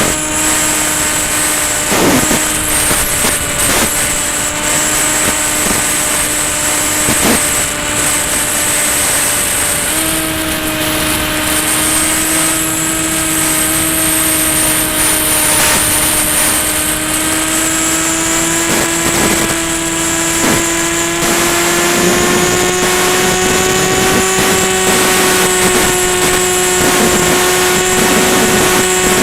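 Electric motor and propeller of a Ranger EX RC plane running steadily in flight, with a steady high whine above it and a rushing noise beneath. The pitch steps up about a third of the way in and again near two-thirds.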